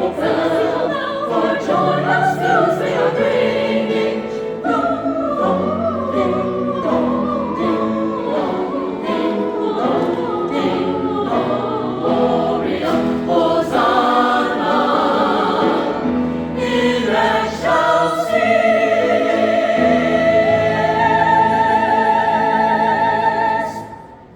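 A choir singing in parts, ending on a long held chord with vibrato that cuts off sharply near the end.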